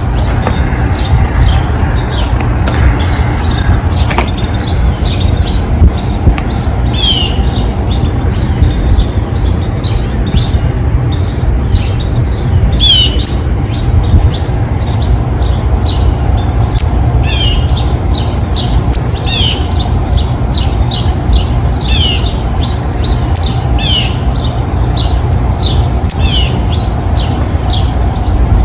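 Small songbirds calling with many short, sharp downward chirps, one every second or so, over a steady low rumble.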